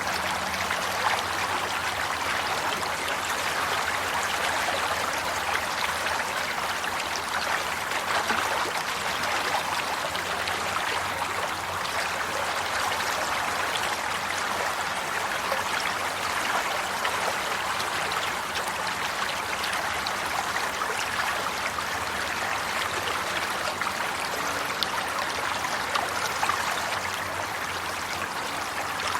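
Water flowing steadily in a stream, an even splashing and trickling rush with many small bubbling flickers and no pauses.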